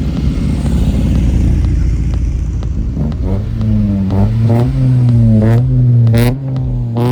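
A car engine running loudly. From about three seconds in it is held at a steady raised speed, with its pitch wavering slightly.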